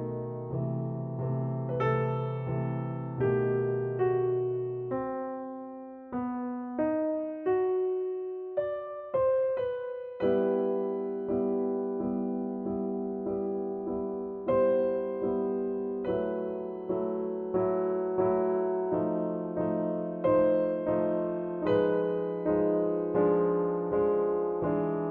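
Soft background piano music: a slow melody of separate notes, with a low accompaniment that drops out for a few seconds partway through and comes back.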